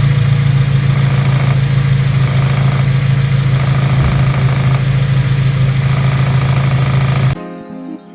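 Honda Integra Type R (DC5) four-cylinder engine running with a steady low drone, cutting off about seven seconds in as music begins.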